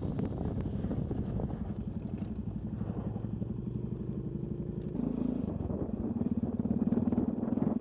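Motorcycle engine running under way with a steady rapid pulsing; its note steps up about five seconds in.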